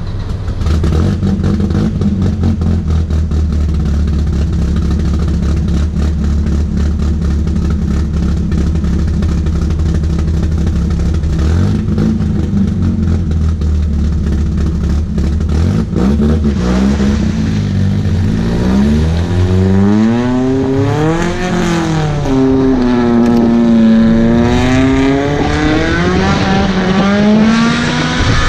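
Volvo 740's naturally aspirated, built B230F four-cylinder engine, loud. It runs steadily at first, then from a little past halfway is revved up and down again and again in long rising and falling sweeps.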